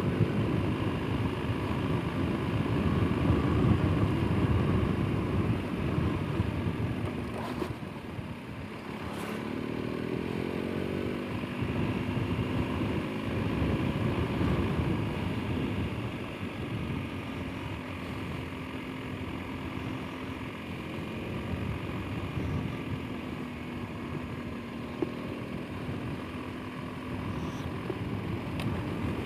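Motorcycle engine running under way, with a rumble of wind and road noise. About a third of the way in the engine pitch climbs as the bike accelerates, then settles to a steadier note.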